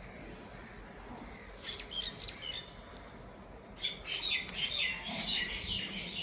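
Small birds chirping: a short run of quick chirps about two seconds in, then a longer, busier run of chirps from about four seconds on.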